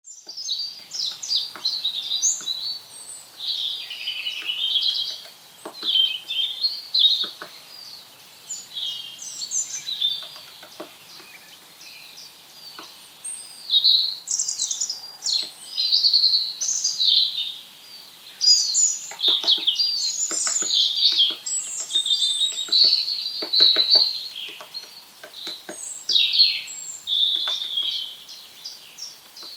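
Birds chirping and twittering, with a scattering of short sharp knocks that come thickest in the second half: a great spotted woodpecker pecking seeds out of a pine cone.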